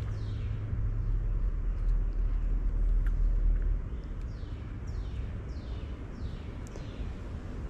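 A bird calling a run of high whistled notes that each slide downward, about two a second, starting about four seconds in. Under it is a steady low rumble that swells in the first half.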